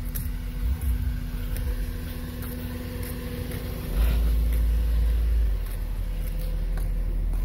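Acura RSX four-cylinder engine idling steadily, with a louder low rumble for about a second and a half about four seconds in.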